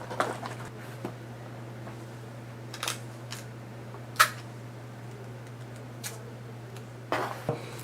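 Scattered small clicks and rustles of a respirator mask and its rubber-band strap being handled, the sharpest click about four seconds in and a few more near the end, over a steady low hum.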